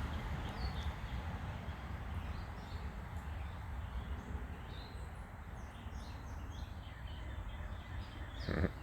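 Wild backyard birds chirping: many short, high calls scattered through, over a steady low rumble. A brief louder noise stands out near the end.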